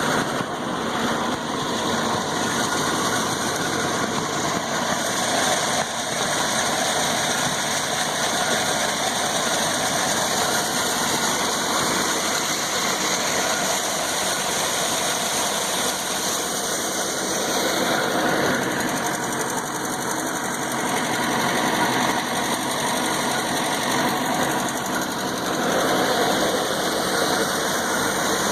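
Combine harvester engine running steadily, driving a centrifugal mud pump, with small swells in level.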